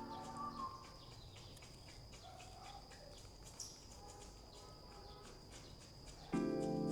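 Background music stops about half a second in. What is left is faint outdoor ambience: a steady high insect drone, a few scattered bird chirps and light ticks. The music comes back in near the end.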